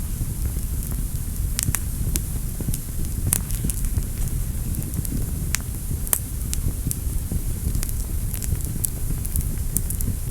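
Fire in a fireplace crackling: irregular sharp pops and snaps, several a second, over a steady low rumble of burning.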